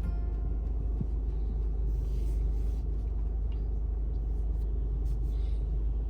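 Steady low rumble of a car being driven, with faint patches of hiss twice along the way.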